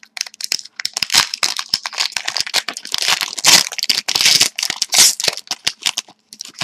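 Wrappers of Score hockey card packs being torn open and crinkled by hand, a dense irregular crackling and rustling.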